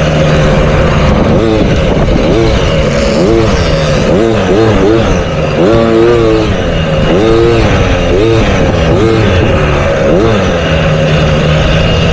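Motocross dirt bikes on the track, their engines revving up and falling back over and over, several at once, over a steady engine drone.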